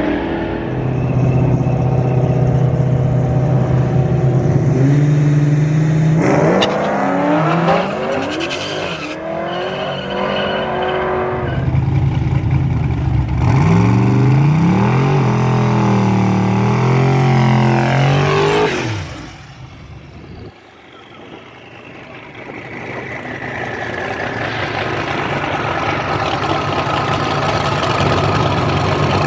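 Twin-turbo Dodge Demon's V8 running with revs rising and falling, the pitch sweeping up and down in two stretches. About two-thirds through the sound falls away sharply, then builds back to a steady engine drone.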